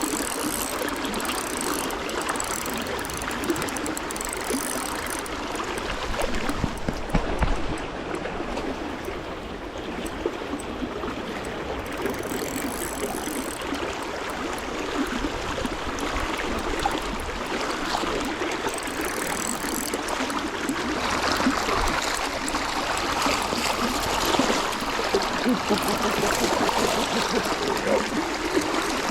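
Running stream water flowing steadily, with the mechanical ratcheting clicks of a fishing reel being cranked.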